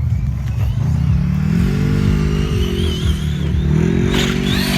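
Large RC truck driving hard over heavy low rumble, its motor pitch rising and falling twice as the throttle is worked.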